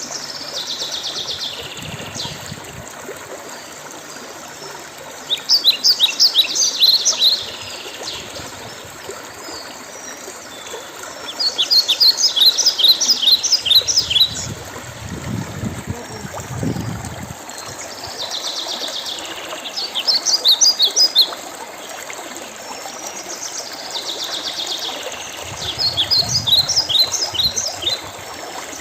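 A songbird singing a fast phrase of high chirping notes, repeated five times at intervals of about six seconds, over the steady trickle of running water.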